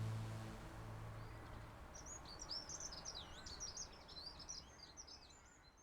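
A small songbird singing a rapid, jumbled run of high chirps and twitters, fading away near the end. Background music fades out in the first second or two.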